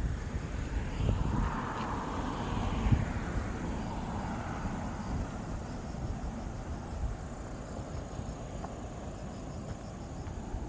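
Outdoor field recording: a steady high insect trill with a low wind rumble on the microphone. A broad rushing sound swells about a second in and fades away over the next few seconds.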